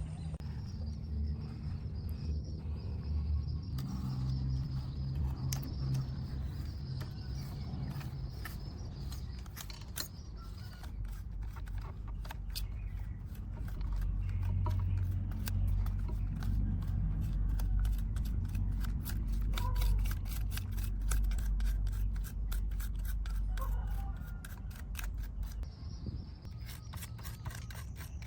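Rapid scraping clicks over a low rumble, the clicks growing faster and denser toward the end.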